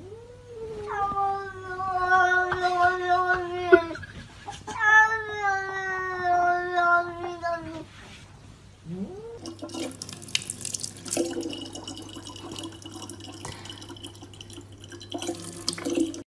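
A domestic cat giving two long, drawn-out yowls, each about three and a half seconds, held steady and sagging slightly in pitch at the end. About nine seconds in, a short rising cry is followed by a steady rushing hiss.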